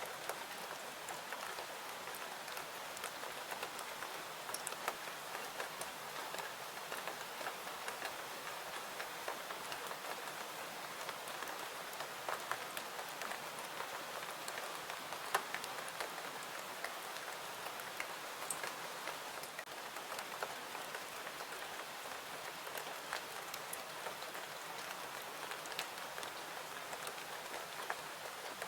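Steady rain falling, an even hiss with scattered sharp little ticks of drops and pops throughout.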